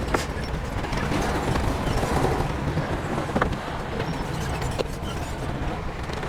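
Heavy diesel machinery running with a steady low rumble, with a few sharp knocks of metal or rock standing out.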